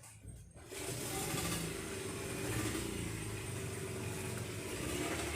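Motorboat engine kicks in less than a second in and then runs steadily.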